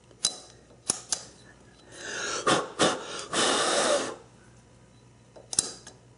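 Sharp metal clicks and clinks of a snap gauge being handled and worked into a freshly bored hole: three light clicks early, a rushing scrape about two seconds long with two sharp clicks in the middle, and a final pair of clicks near the end.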